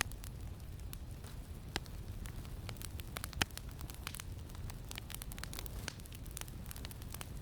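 Campfire crackling, with frequent irregular sharp pops; the loudest pop comes about three and a half seconds in. Under it runs a steady low rumble of wind.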